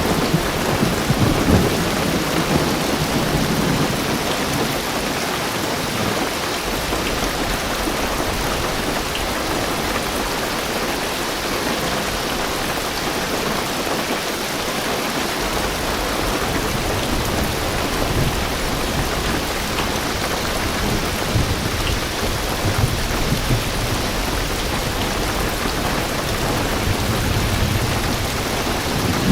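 Heavy rain drumming steadily on a car's roof and windows, heard from inside the car. A low rumble of thunder runs under it at the start and again from about halfway through.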